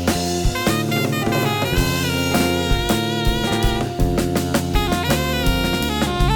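Jazz quartet playing: an alto saxophone line over electric guitar, electric bass and drum kit, with regular drum hits.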